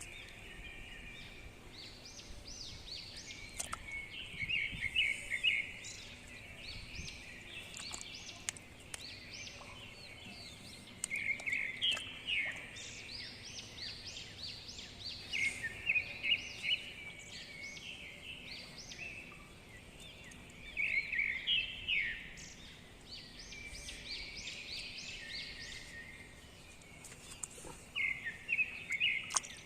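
Birds chirping: clusters of quick, high chirps come every few seconds over a faint steady hiss.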